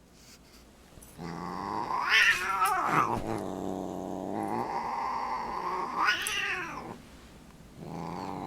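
Domestic cat growling low and drawn out, twice swelling into a rising-and-falling yowl, about two seconds in and again about six seconds in, then breaking off briefly near the end. A cat's threat growl during a standoff with a dog.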